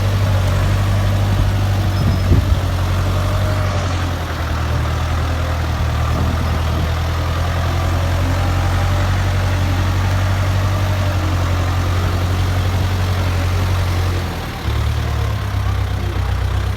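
Ford 6600 tractor's three-cylinder diesel engine running steadily at a low, even note, with a couple of short knocks about two seconds in. About fourteen seconds in the level dips briefly and the engine note settles lower.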